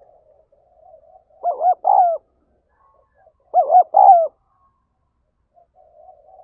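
Spotted dove cooing its calling song: two phrases about two seconds apart, each two short coos followed by a longer one.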